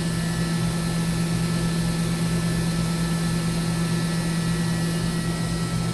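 Mazak HCN 4000-III horizontal machining center spindle running unloaded at a steady 10,000 RPM: an even hum with a couple of faint higher tones, the sound of a healthy spindle.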